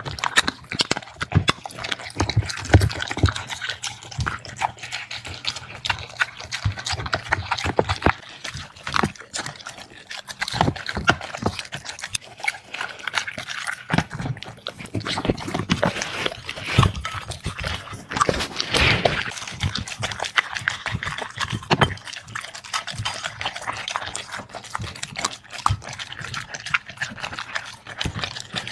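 Dogs eating: a dense run of quick, irregular chewing and smacking clicks.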